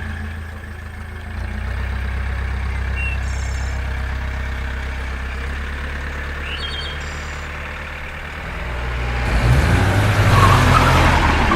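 Vehicle engine running with a steady low rumble, getting louder about nine seconds in, with a couple of brief high chirps over it.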